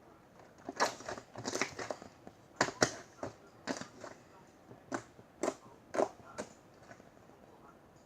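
Cupcake slime being squished and pressed by hand, giving a series of sharp, crackly pops and squelches that start about a second in and die away after about six and a half seconds.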